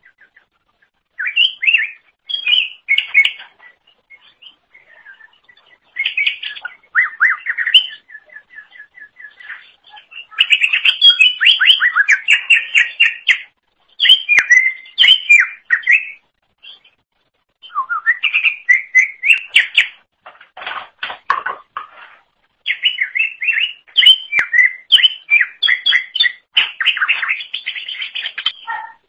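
Greater green leafbird (cucak ijo) singing loudly: phrases of rapid, varied chirps and whistles a few seconds long, broken by short pauses.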